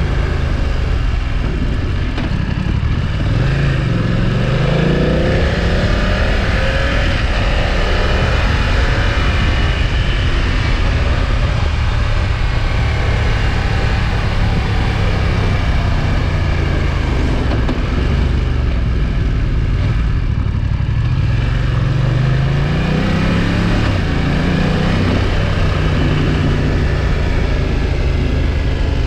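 2020 BMW F900XR's parallel-twin engine and exhaust under way, rising in pitch as it accelerates about two to five seconds in and again around twenty-two seconds, running steadier between, with road and wind noise.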